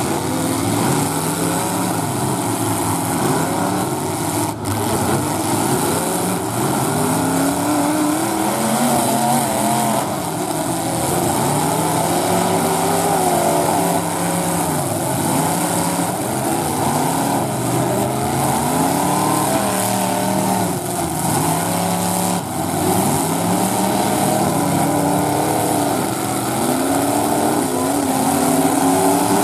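Several demolition derby cars' engines revving hard at once. Their overlapping pitches keep rising and falling as the cars accelerate and push into each other.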